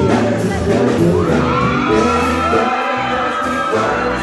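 Live pop band and singer performing, with audience members whooping and screaming along.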